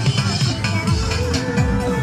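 Loud electronic dance music played through a big sound system with 18-inch bass speakers. A deep kick drum drops in pitch a few times a second under a steady held note.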